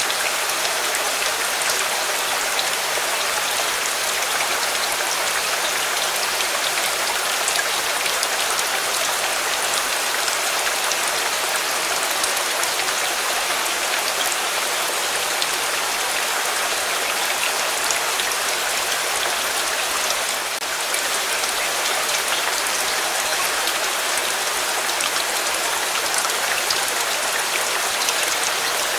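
Steady rain: an even hiss of falling drops with a fine patter of individual drop ticks, barely changing.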